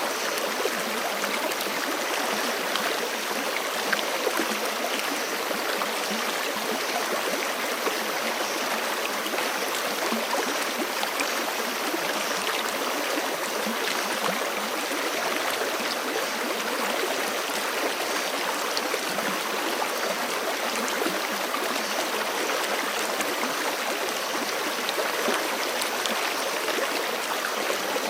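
A forest creek flowing over rocks, a steady rushing and gurgling of water.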